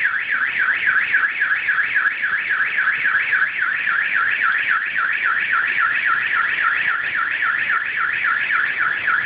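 Car alarm siren warbling rapidly and steadily, about four rises and falls a second. It was set off by a rumble of thunder.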